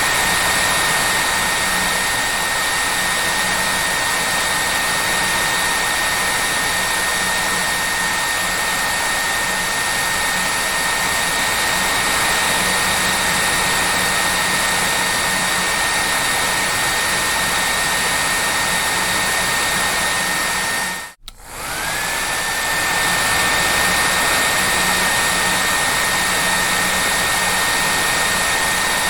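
Hair dryer blowing steadily, a loud rushing air noise with a high whine over it. About two-thirds of the way through it cuts out for a moment and comes back, the whine rising back up to pitch as the motor spins up.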